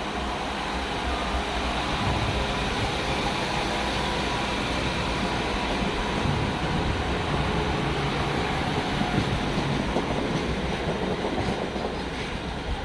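A train running on the rails, a steady rumble that eases off slightly near the end.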